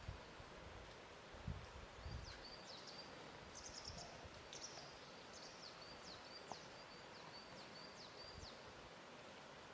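Faint lakeshore ambience: water lapping softly under a steady hiss, with a few low splashes in the first two seconds. An animal repeats short high chirps over it.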